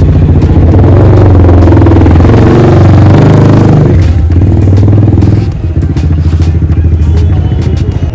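Yamaha R15 V3's single-cylinder engine running loud through a free-flow full-system aftermarket exhaust: it revs up over the first three seconds or so, drops back sharply about four seconds in, and runs lower and unevenly after that.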